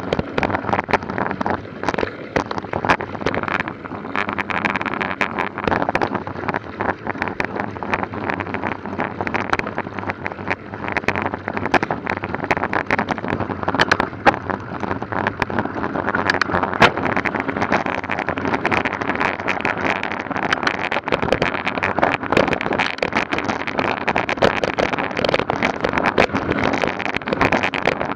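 Mountain bike ridden fast over a rough trail: steady wind rush on the microphone with constant clattering and crackling from the bike and tyres.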